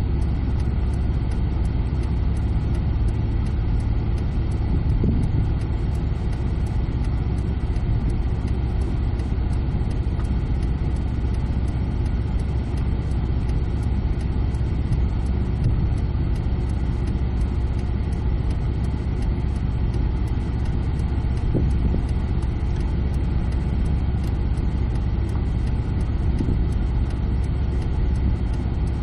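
Car engine running at walking pace, a steady low rumble heard from inside the car's cabin.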